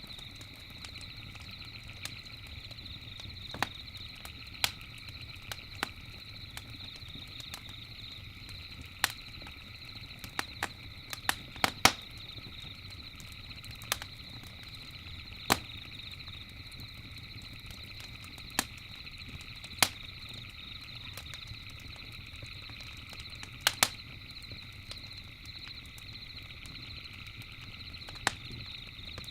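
Campfire crackling, with irregular sharp pops, a quick cluster of them about twelve seconds in, over a steady high-pitched background trill.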